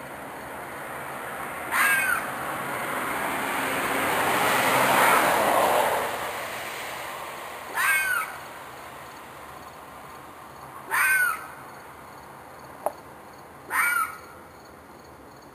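An animal screaming outdoors at night: four harsh, short screams, each about half a second, spaced a few seconds apart, which the recordist thinks may be a fox or coyote in distress. A rushing noise swells and fades between the first and second scream, and a single sharp click comes just before the last.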